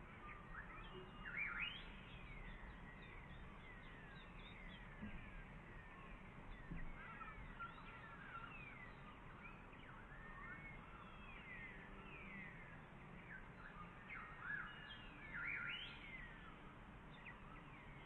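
Faint background chorus of small birds chirping and twittering, many short quick notes overlapping, with a louder flurry about a second and a half in and another a few seconds before the end.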